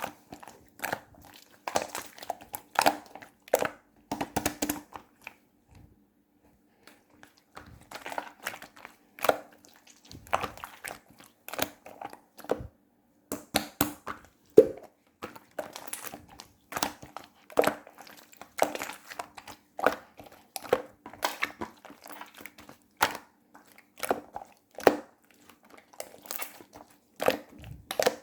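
Clay slime being squeezed, poked and stretched by hand, giving irregular sticky crackles and small pops, with a short lull about six seconds in. A faint steady hum runs underneath.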